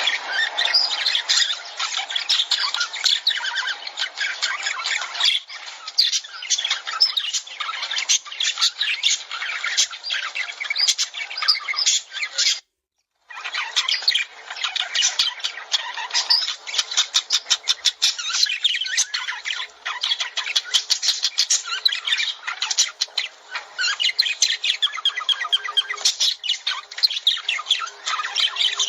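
Lovebirds chattering: a dense, continuous stream of rapid high-pitched chirps and squawks from several birds, broken by a momentary silence about halfway.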